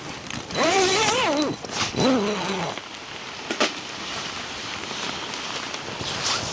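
Steady rain falling, a continuous hiss. Early on, a high-pitched voice calls out twice, and a single sharp tap comes about three and a half seconds in.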